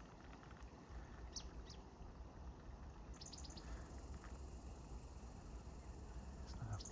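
Small songbirds chirping faintly: thin, high, short notes, two falling chirps and then a quick run of four, with a low rumble underneath.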